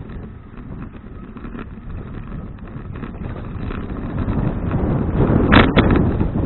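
Wind rumbling on a bicycle-mounted action camera's microphone during riding, swelling in the second half. Two sharp knocks come close together about five and a half seconds in.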